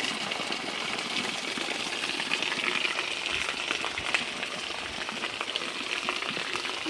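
Steady rain falling, a fine hiss with scattered light ticks of drops.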